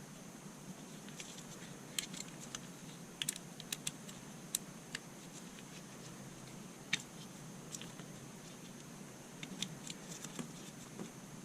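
Scattered light clicks and taps of small parts being handled and fitted together while reassembling the impact driver's internals, irregular and spaced out over a faint steady hiss.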